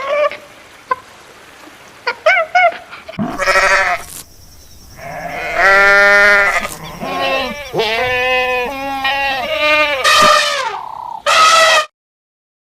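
Animal bleating: a few short calls, then several loud, long, wavering bleats that cut off abruptly near the end.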